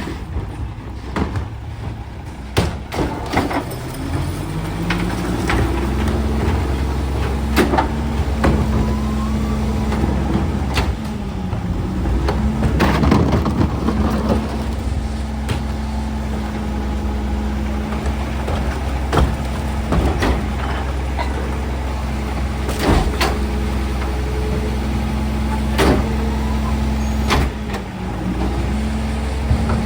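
Garbage truck's diesel engine speeding up over a couple of seconds, then holding steady at raised revs, with repeated sharp knocks and bangs throughout. The engine dips briefly twice.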